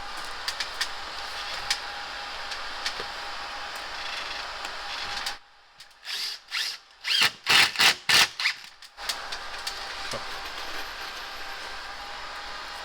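Cordless power drill-driver run in several short bursts, about six to nine seconds in, over a steady background hiss with scattered small clicks.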